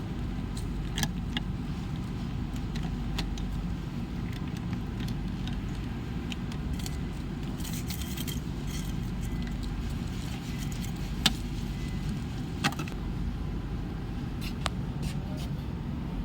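Scattered sharp clicks and light rattles of a refrigerator control board and its plastic connectors being handled during removal, the two loudest clicks about 11 and 12.5 seconds in. Under them runs a steady low background rumble.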